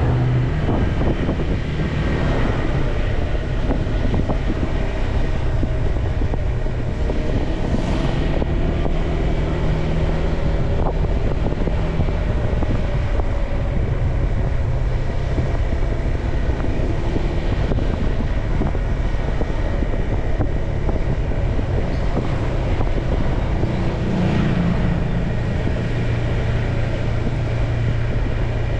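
Motorcycle engine running steadily on the move, its note rising and falling slightly, with wind noise on the microphone.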